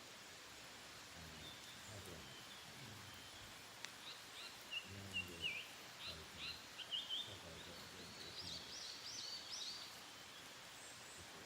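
A wild songbird singing a run of quick, varied chirps and trills, starting about four seconds in and lasting several seconds, over a faint steady outdoor background. A single sharp click comes just before the song starts.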